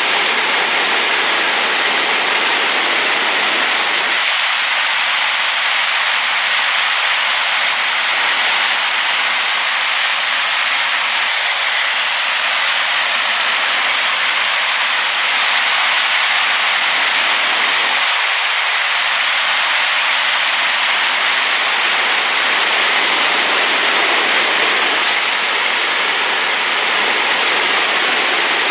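Rain-swollen waterfall: a loud, steady rush of falling water.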